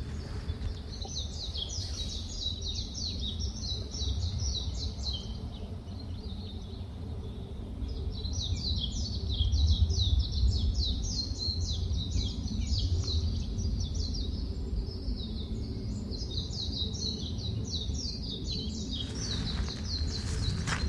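Small birds chattering in fast, high, tumbling chirps that come in three long bouts, over a steady low rumble.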